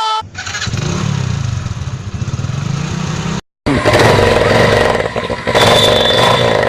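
Motorcycle engine running with a steady low throb. It breaks off abruptly about three and a half seconds in, then comes back louder and harsher.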